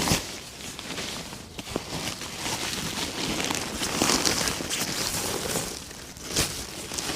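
Crinkling and rustling as a sleeping pad and bedding are handled and shifted about inside a rooftop tent, with a short knock about six seconds in.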